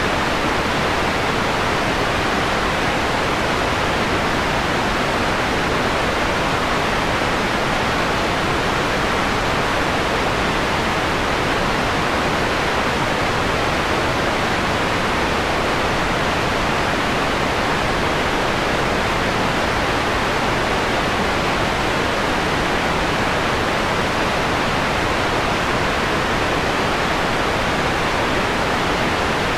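Steady synthetic white noise, filtered to a mellower hiss with its highs rolled off, most of its strength in the middle, unchanging throughout.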